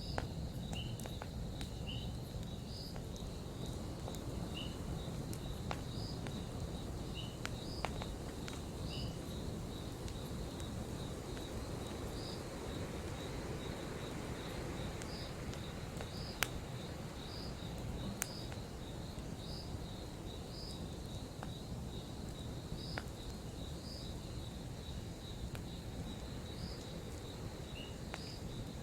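Campfire burning: a steady low rumble with scattered sharp crackles and pops, two of them louder past the middle. Insects keep up a steady high chirping, repeating at an even pace.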